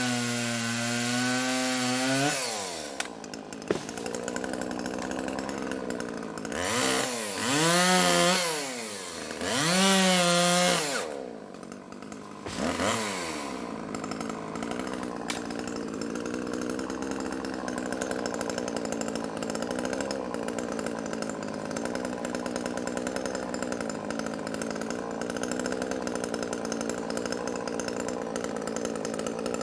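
Chainsaw engine: its pitch falls away about two seconds in, then it is revved up and back down twice, drops off briefly, and settles into steady running for the rest of the time.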